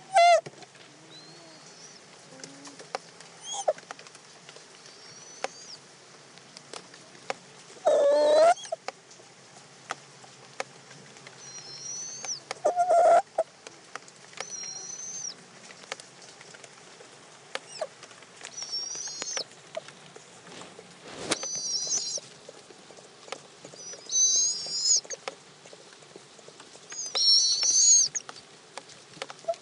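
Barred owls in a nest box calling: short, high, wavering calls repeat every second or two and grow louder near the end. Louder, harsher, lower calls come at the start, about eight seconds in and about thirteen seconds in, with scattered small clicks between.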